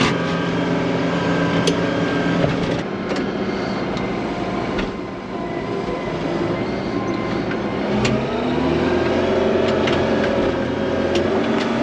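Tractor engine working hard under heavy load while pushing through a deep snow drift. The engine note sags about halfway through and picks up again near the end, with a few knocks and clanks.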